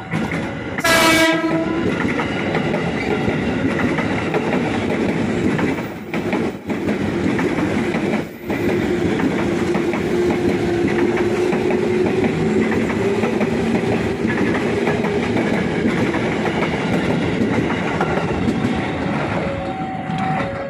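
Electric commuter train, an ex-JR 205 series unit, sounds its horn in one short blast about a second in, then runs close past at speed with a steady loud rumble of wheels on rail, a faint steady hum rising through it in the middle.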